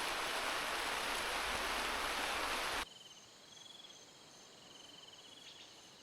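Steady hiss of heavy rain that cuts off abruptly just before halfway through, giving way to a quiet background with insects trilling in short pulsing runs.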